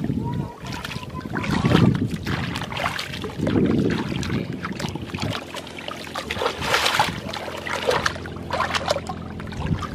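Water splashing and sloshing in a flooded muddy field, in irregular bursts, with a faint steady hum in the second half.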